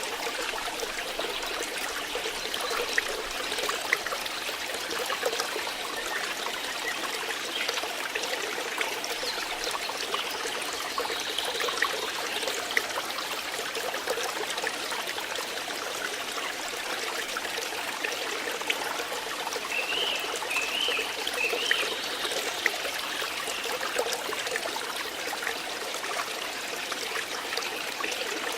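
Flowing water trickling and babbling steadily, with a few brief high chirps about two-thirds of the way through.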